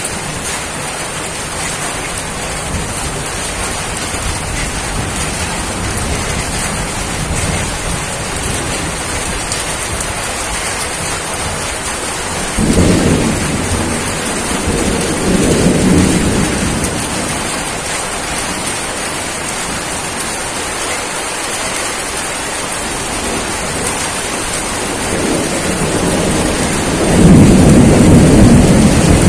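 Steady rain falling, with two deep rolls of thunder: one about halfway through that swells twice, and a louder one near the end.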